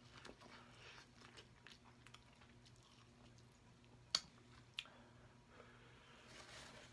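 Faint, close-miked chewing of a bite of sauce-coated corn on the cob: soft wet mouth sounds and light crunches, with two sharper clicks a little after four seconds in.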